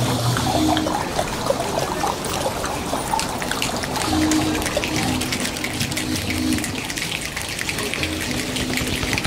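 A crowd imitating a rainstorm with their hands: a dense, crackly patter of many small snaps and rubs that sounds like rain and grows thicker about halfway through. A low steady hum comes and goes underneath.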